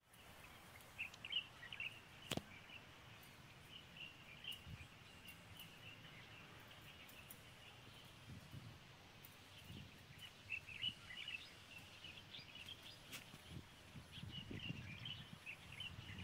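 Faint birds chirping over a low outdoor background hum, with a single sharp click about two seconds in.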